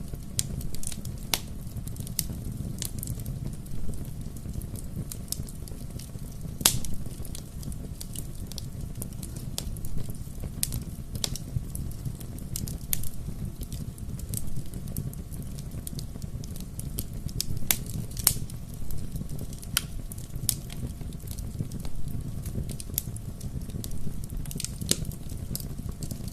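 Bonfire crackling, with sharp pops and snaps at irregular moments over a steady low rumble of the flames.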